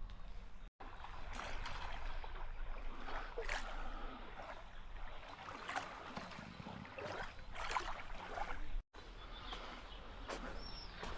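Seawater splashing and lapping, with irregular sharper splashes over a steady wash. The sound drops out abruptly twice, near the start and near the end.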